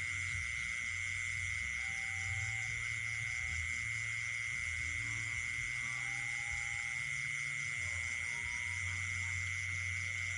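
Night chorus of insects and frogs: a steady, unbroken high trill, with faster pulsing insect calls above it and a few short frog notes scattered through. A deep on-and-off sound runs underneath.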